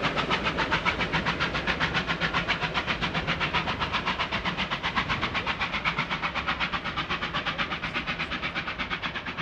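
Steam locomotive R761, a Victorian Railways R class 4-6-4, working a train at speed: a fast, even rhythm of exhaust beats that gradually fades as it moves away.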